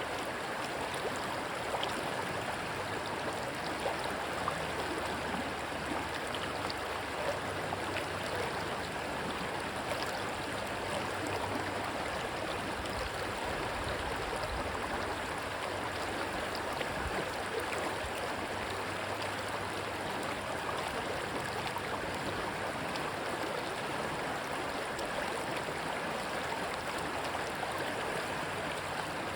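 Rushing stream water, a steady even rush with no breaks.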